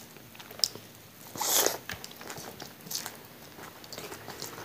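A person chewing food close to a clip-on microphone, with scattered small mouth clicks and one louder crunchy bite about a second and a half in.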